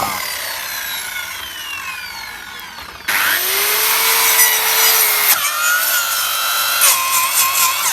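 Bosch circular saw cutting lumber. Its whine falls away and fades over the first three seconds, then about three seconds in it starts again suddenly and cuts through wood. Its pitch drops lower twice in the second half as the blade binds (pinches) in the cut.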